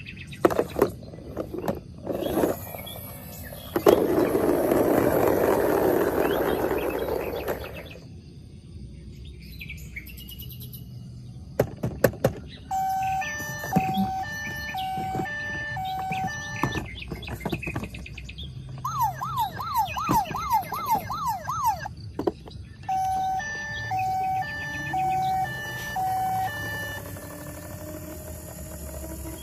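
Electronic siren sounds from battery-powered toy vehicles: a repeating two-tone beeping pattern, a fast rising-and-falling yelp lasting about two seconds, then the beeping pattern again. Earlier there are a few sharp plastic clicks and a loud hissing rush lasting about four seconds.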